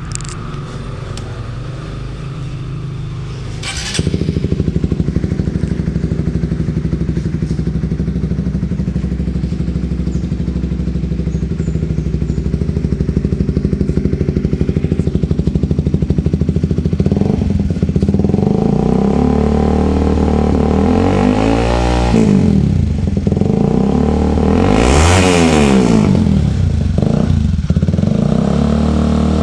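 Honda CBR150R single-cylinder engine running through an IMS Chuenk aftermarket slip-on muffler: idling steadily, louder from about four seconds in, then revved up and back down four times in the second half, the longest rev shortly before the end.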